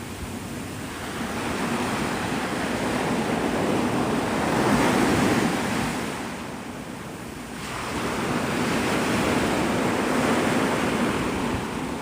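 Gulf of Mexico surf breaking and washing up the beach, swelling twice with a lull in between, with some wind on the microphone.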